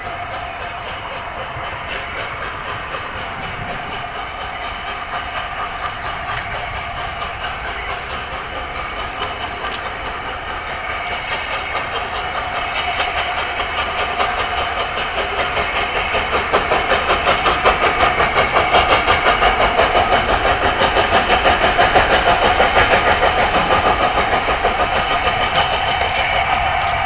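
Steam locomotive running with hissing steam, growing louder as it approaches. From about halfway in, a fast, even beat of exhaust chuffs comes through.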